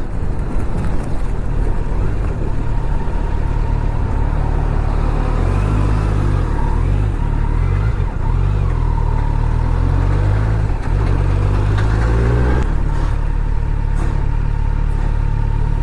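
Kawasaki Z900's inline-four engine running under way, its revs rising and falling.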